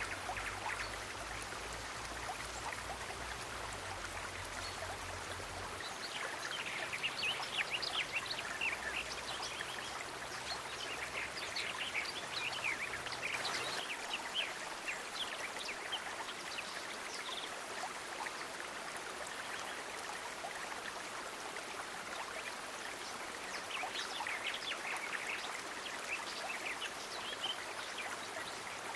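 Steady rush of running water, with three spells of quick, high ticking sounds a few seconds long.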